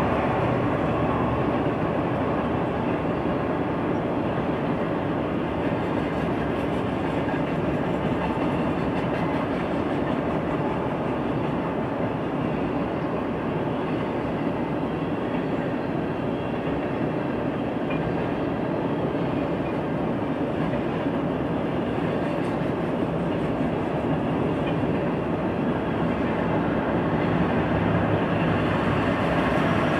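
Freight train tank cars rolling past: a steady, continuous rumble of steel wheels on rails.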